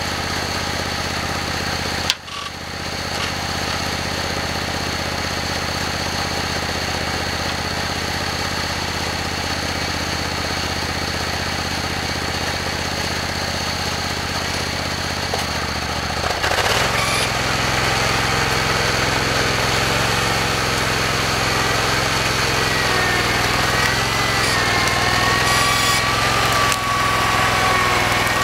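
Simplicity Legacy garden tractor's engine running steadily, with a sharp click about two seconds in. About 16 seconds in the engine picks up speed and runs louder, and a wavering whine joins it near the end.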